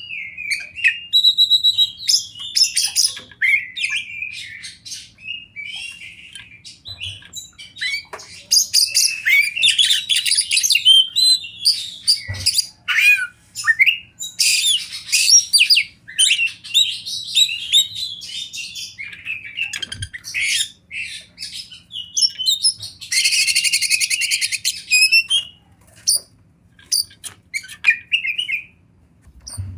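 Oriental magpie-robin (kacer) singing a long, varied song of whistles and chirps in phrases with short pauses, including a harsh buzzy stretch about three quarters of the way through.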